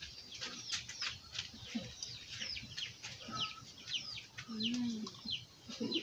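Birds chirping: many short, high, falling chirps in quick succession, with a short low hum near the middle.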